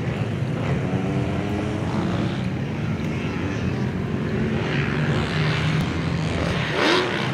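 Motocross dirt bike engine running with a steady drone.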